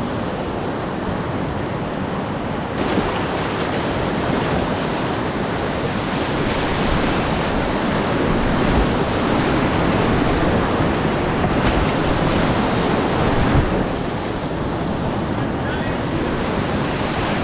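Whitewater rapids of a mountain river rushing steadily, a dense continuous water noise that swells slightly in places.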